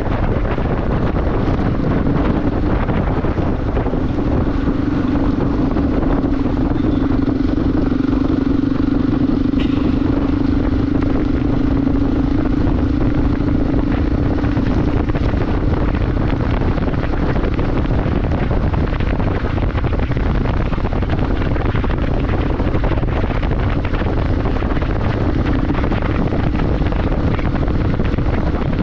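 Motorcycle riding at a steady speed: wind buffeting the rider's microphone over the engine's steady drone. The engine note sinks under the wind about halfway through and comes back near the end.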